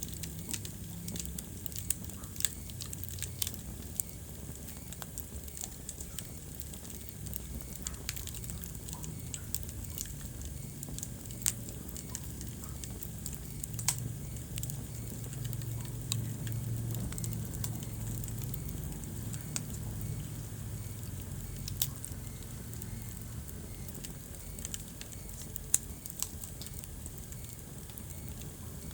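Wood fire burning in a fireplace, crackling steadily, with scattered sharp pops over a low rumble of flame.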